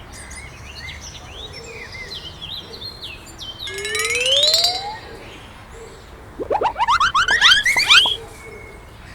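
Birdsong ambience with short chirps over a steady hiss, then a single rising tone about four seconds in and a quick run of rising sweeps a couple of seconds later.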